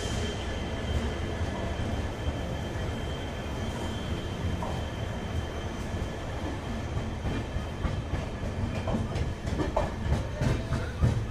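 Passenger train coach rolling on the rails: a steady low rumble, with wheel clatter over rail joints and points that grows denser and louder from about nine seconds in.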